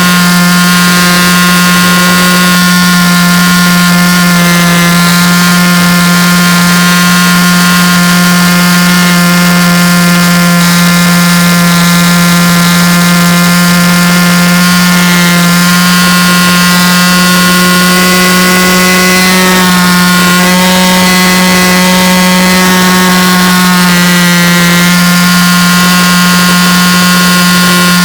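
A loud, steady low hum with a stack of fainter higher tones above it over a hiss, unchanging throughout.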